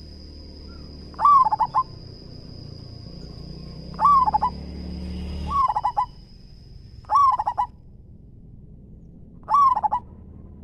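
Zebra dove (perkutut) singing its cooing song five times, each phrase a short falling coo broken into quick stuttering notes. A faint steady high-pitched whine runs under the first few calls.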